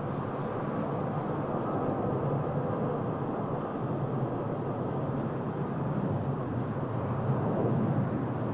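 Airbus A319's twin jet engines during a landing: a steady rumble that swells slightly near the end.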